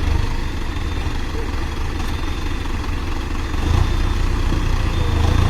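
Tractor diesel engine running with a deep, steady drone, swelling a little louder about two-thirds of the way in.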